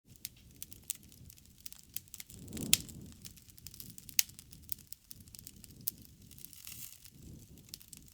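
Wood fire crackling, with many sharp pops, the loudest about two and a half seconds in and another just after four seconds, over a low rumble of flames that swells around the loudest pop.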